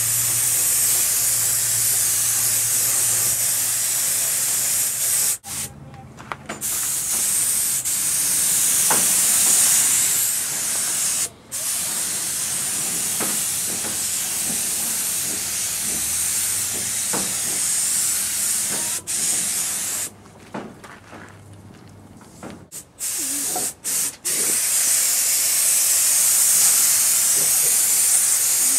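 Paint being sprayed in long, steady hissing passes. The spray stops briefly about five and eleven seconds in, pauses for a few seconds about two-thirds of the way through with a couple of short spurts, then runs on again.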